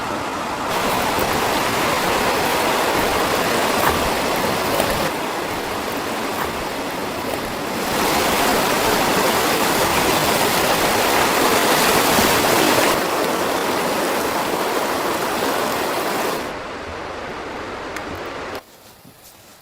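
Blizzard wind blowing as a steady, loud rushing noise. Its loudness jumps up and down several times, then drops sharply near the end.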